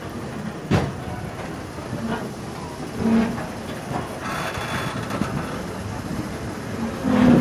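A passenger train running on the track: a steady rumble with irregular knocks and rattles from the wheels and carriages.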